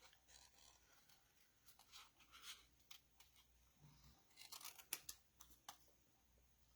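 Faint, scattered snipping and rustling of cardstock being cut with scissors and handled, a few short crisp sounds with a cluster a little before the end.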